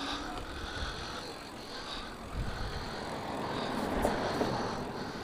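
Wind rumble and rolling noise from a moving e-bike, growing louder about three seconds in.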